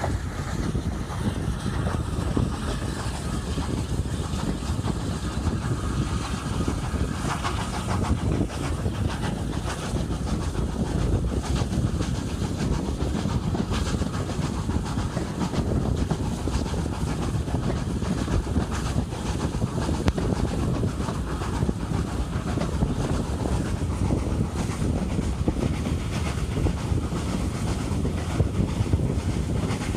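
Hunslet Austerity 0-6-0 saddle tank steam locomotive running with its train, giving a steady, dense mix of exhaust and wheel-on-rail clatter with some steam hiss.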